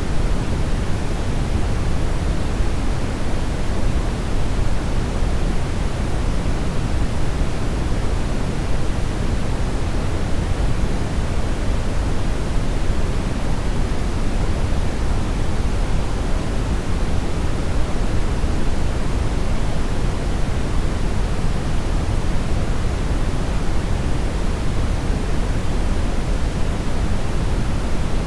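Brown noise: a steady, even rushing hiss weighted heavily toward the bass, with no rhythm or change.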